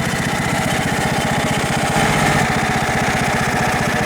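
Craftsman riding lawn mower's engine running steadily, a little louder for a moment about two seconds in.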